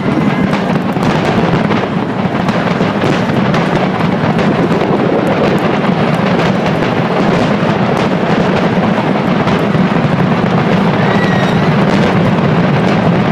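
Aerial fireworks going off in a dense, unbroken barrage, many bursts and crackles overlapping.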